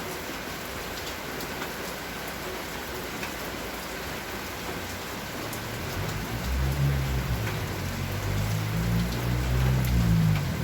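Steady rain falling and pattering on surfaces. A low rumble joins in about six seconds in and grows louder.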